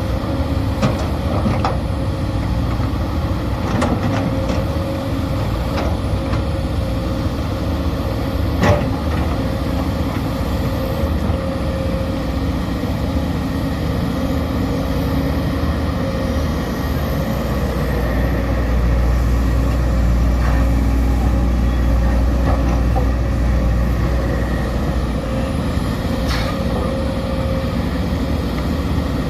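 Sumitomo SH210 excavator's diesel engine running steadily, with a few sharp clanks from the machine at work. The low rumble swells louder for several seconds past the middle.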